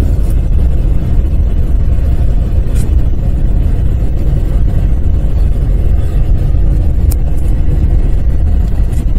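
Steady low rumble of a car driving on a snow-covered road, heard from inside the cabin, with a few faint clicks.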